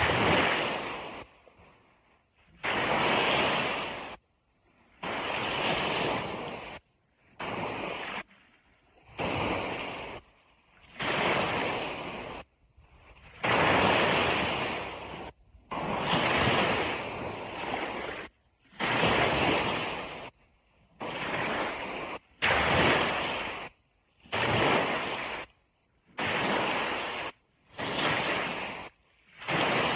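Sea waves breaking and washing on a beach, a rushing noise heard in short stretches of one to two seconds that start and stop abruptly, with brief near-silent gaps between them.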